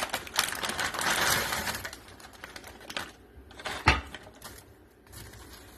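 Frozen broccoli florets tipped from a plastic bag into a slow cooker, a quick run of rattling clicks and bag crinkle over the first couple of seconds, then quieter. One sharp knock just before four seconds in.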